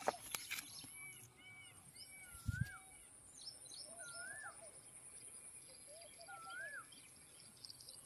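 Several birds calling: short arched chirps and repeated rising-and-falling whistled calls. A few handling clicks come near the start, and there is a single low thump about two and a half seconds in.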